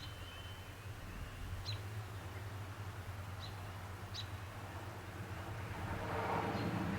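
Several short, sharp songbird chirps, a second or two apart, over a steady low hum. A rushing noise swells near the end.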